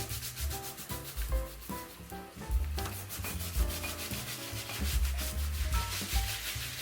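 Rapid, rhythmic back-and-forth rubbing, growing denser after about three seconds, under instrumental background music with a bass line and melody.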